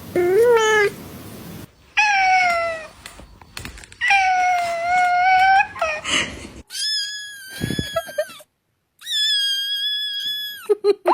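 Domestic cats meowing: about five separate drawn-out meows, the first rising, the later ones long and held at a steady pitch, the last two high and thin.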